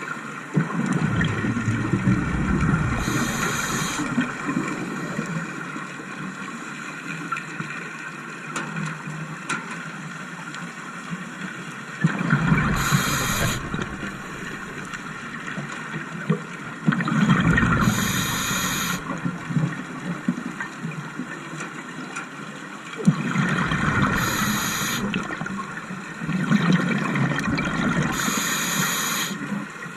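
Scuba diver breathing underwater through a regulator: about five breaths, each a short high hiss of the regulator and a low gurgling rush of exhaled bubbles, with quieter gaps between them over a faint steady hum.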